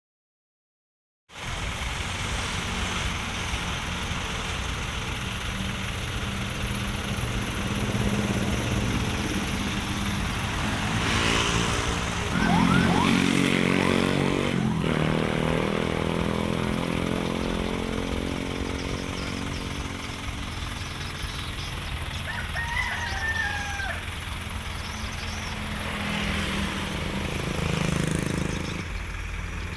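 Heavy truck engines running, with one revving up a little before halfway and its pitch rising and falling. A rooster crows once, about three quarters through.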